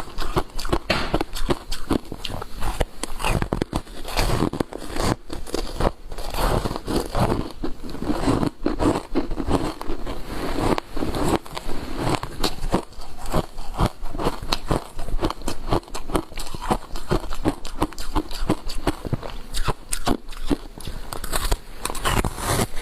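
Ice made with matcha green tea powder being bitten and chewed: a dense, irregular run of crunches and cracks.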